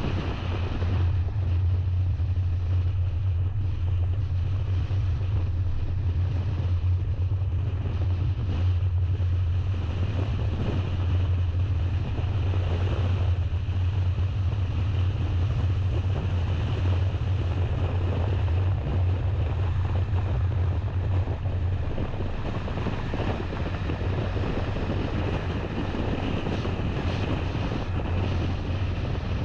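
A car driving at a steady pace: a constant low drone of engine and tyres under a steady rush of wind and road noise.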